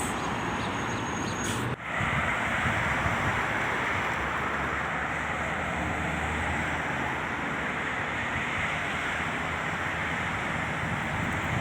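Steady roadside traffic noise with wind rushing over the microphone, and a brief break in the sound just under two seconds in.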